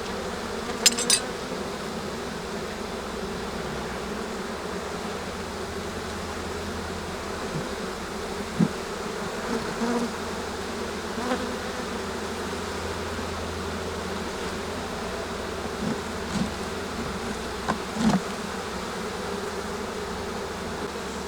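Steady hum of a honey bee colony buzzing over an open hive, with a few short clicks and knocks from wooden frames being handled, the sharpest about a second in.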